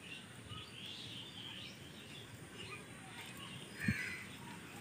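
Faint birds chirping over quiet outdoor background noise, with one short soft knock about four seconds in.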